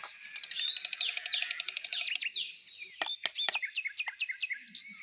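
Birds chirping: a fast run of clicks in the first two seconds, then a quick series of short downward-sweeping chirps.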